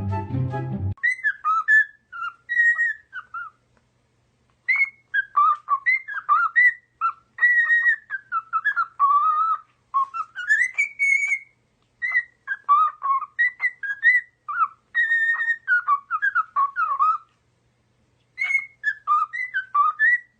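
Pet bird whistling a long run of short, warbling chirps and whistled notes in several bursts with brief pauses. Backing music cuts off about a second in.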